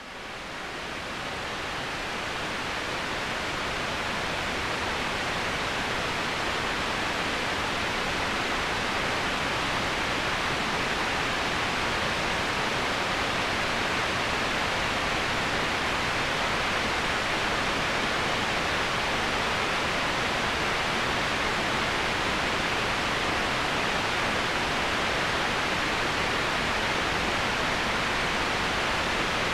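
Steady rush of flowing water from a forest waterfall or river, an even hiss fading in over the first few seconds.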